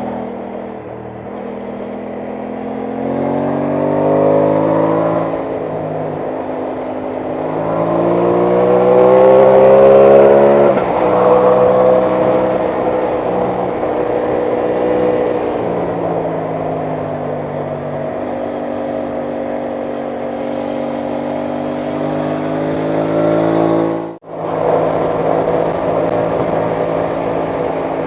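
Aprilia Tuono 660 Factory's parallel-twin engine under way: the revs climb twice and fall back at each gear change, then hold steady at a cruise. The sound cuts out for a moment late on.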